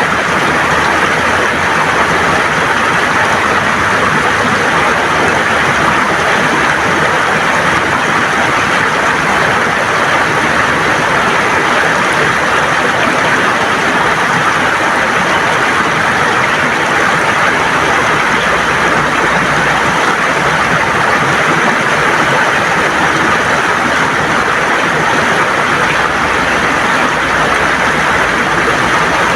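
River water flowing and gurgling over stones: a steady, even rush without a break.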